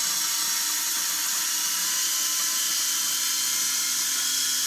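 Small electric RC helicopter in flight, its motors and rotors giving a steady high-pitched whine.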